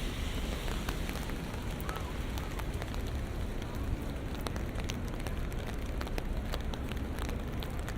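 Steady rain falling, with many sharp drop ticks scattered throughout, over a constant low city rumble.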